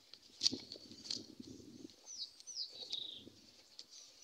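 Faint background birdsong: small birds chirping in short downward-sliding notes about two seconds in, then a longer high call. There are two brief faint taps in the first second.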